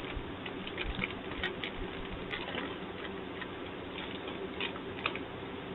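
Crunchy Cheetos being eaten: scattered soft clicks and crunches at irregular intervals, over a faint steady hum.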